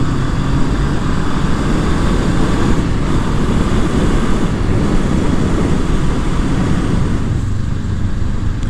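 Honda CB500F's parallel-twin engine on its stock exhaust, running steadily on the move under heavy wind rush on the microphone; near the end the wind eases and the engine's steady note comes through more clearly.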